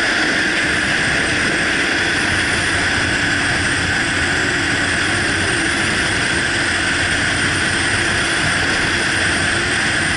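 Motorcycle under way: a loud, steady rush of wind and engine noise on the microphone, unchanging throughout.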